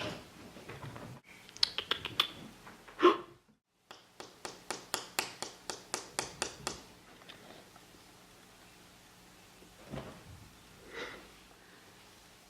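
A quick run of light, sharp clicks or taps, about four to five a second for a couple of seconds, after a few scattered clicks.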